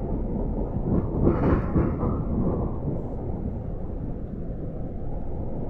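GO Transit commuter train running, a steady low rumble heard from inside the coach, with a louder rushing noise swelling about a second in and fading over the next second or so.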